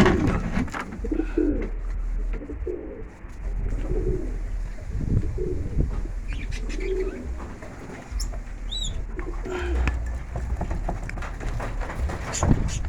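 Racing pigeons cooing, with repeated short low coos overlapping one another and a brief high call about nine seconds in.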